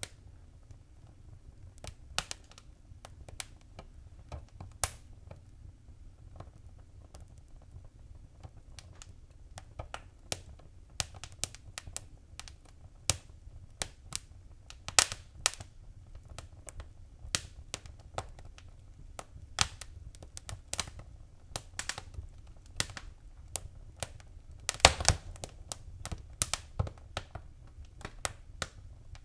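Wood fire crackling: irregular sharp pops and snaps over a low, steady background noise, with a quick run of louder pops about 25 seconds in.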